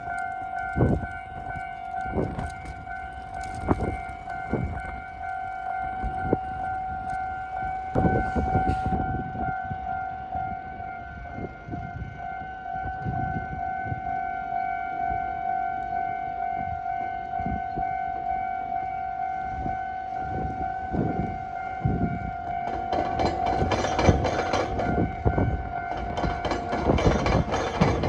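Railway level-crossing warning signal sounding with a steady high tone, warning of an approaching train. In the last few seconds the train's wheels can be heard growing louder as it comes up on the crossing.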